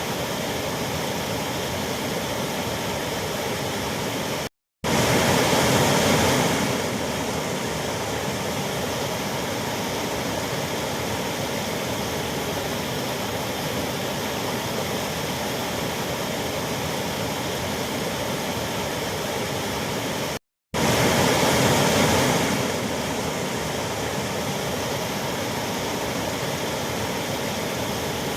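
Waterfall rushing steadily. The sound drops out for a split second about five seconds in and again about twenty seconds in, each time coming back a little louder for a couple of seconds.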